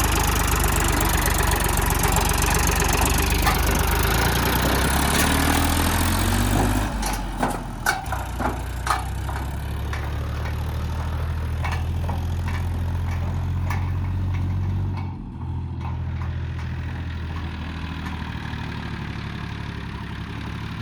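Tractor diesel engine running steadily. For the first seven seconds a loud hissing noise rides over it; a few sharp knocks follow, and after that the engine runs on more quietly.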